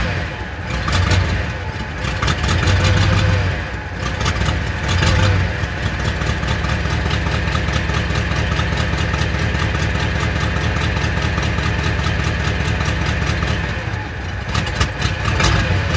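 Chevrolet Monte Carlo engine on a cold first start after winter storage. It runs unevenly, its speed rising and falling for the first five seconds or so, then settles into a steady idle and picks up again near the end.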